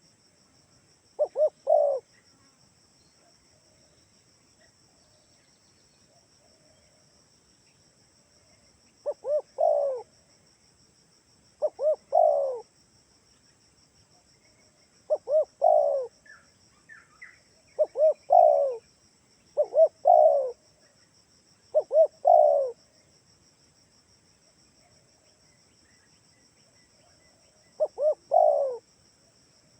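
Spotted dove (tekukur) cooing: a repeated three-note phrase of two short coos and a longer coo, eight times with gaps of two to six seconds, used as a lure call. A faint steady high-pitched hum sits behind it.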